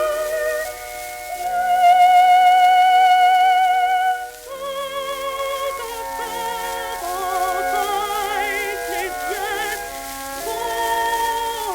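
Early phonograph recording from a shellac record playing a slow melody of long, held notes with vibrato.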